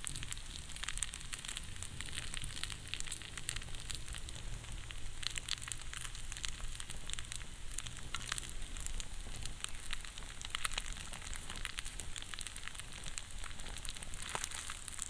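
Food frying in a pan: a steady sizzle with dense, irregular crackles and pops.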